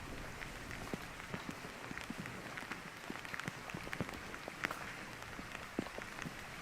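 Steady rain falling, with many irregular sharp drop ticks close by.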